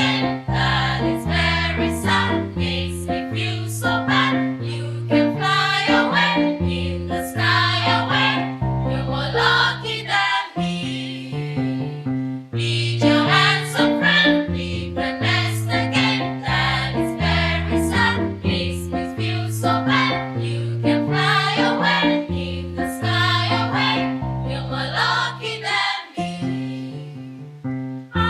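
Female choir singing with instrumental accompaniment and a rhythmic, stepping bass line, with a short break between phrases about twelve seconds in.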